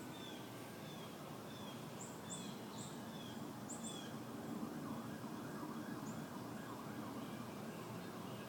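Small bird chirping, short high calls about twice a second during the first half, fewer after, over a steady low background hum.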